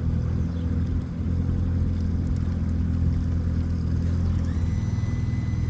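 Motorboat engine running steadily while under way: a low, even drone.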